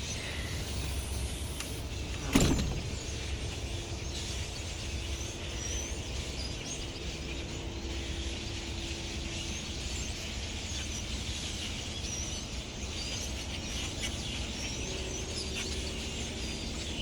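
A flock of blackbirds calling, with many short chirps overlapping throughout, over a steady low rumble. A single loud thump comes about two and a half seconds in.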